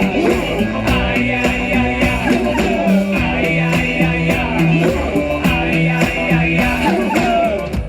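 Live electronic punk band music: an instrumental stretch with a steady beat and a repeating bass line between sung lines.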